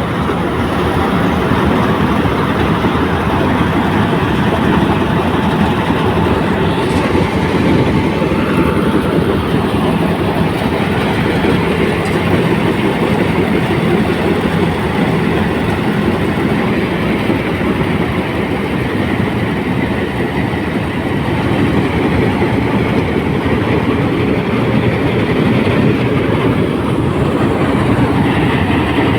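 John Deere 5310–based paddy harvester running, its engine and threshing machinery making a loud, steady mechanical rattle.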